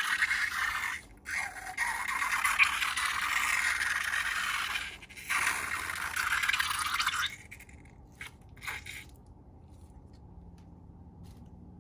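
Steady scraping, rattling noise, broken by two short gaps, which stops about seven seconds in; a few soft clicks follow.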